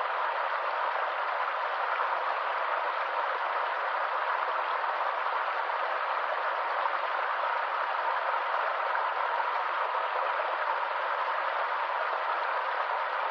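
Steady rush of a small stream's running water, even and unbroken.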